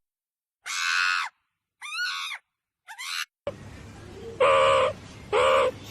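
Animal calls: three short cries with a rise and fall in pitch, then a run of louder, evenly spaced calls about once a second over steady background noise.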